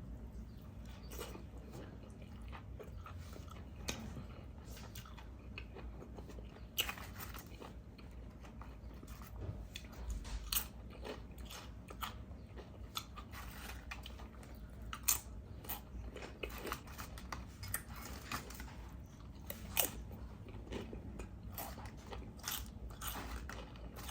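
Close-miked eating: steady chewing with many small crunches, and a handful of louder, sharper crunching bites spread through.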